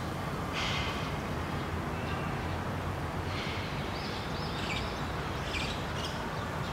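Birds giving short high chirps over a steady low background rumble: one call about half a second in, then a run of several calls from the middle to the end.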